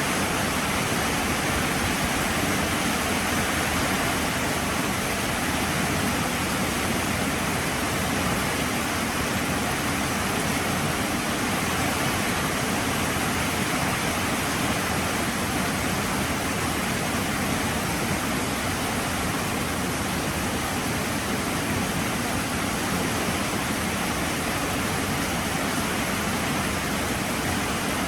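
Heavy rain falling steadily: a constant, even hiss with no breaks.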